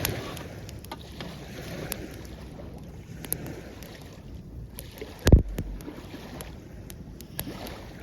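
Campfire crackling in short sharp snaps over the wash of small waves breaking at the shoreline, with wind on the microphone. A single loud thump comes about five seconds in.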